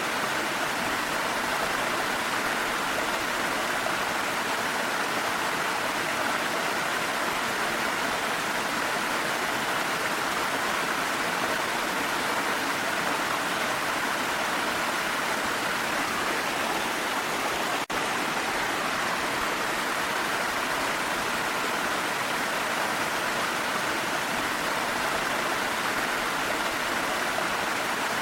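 Waterfall water rushing steadily as an even, unbroken roar, with a momentary dropout about two-thirds of the way through.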